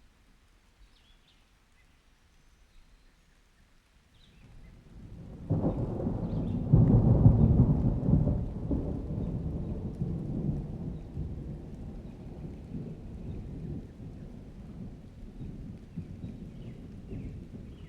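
Thunder in a rainstorm: quiet at first, then a long roll of thunder builds about five seconds in, peaks a couple of seconds later and slowly fades out, with rain falling under it.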